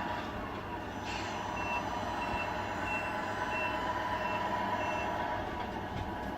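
Scale truck sound unit on a Tamiya RC truck playing its reversing beeper: six even beeps about one and a half a second over a steady diesel drone, with a short hiss just after a second in.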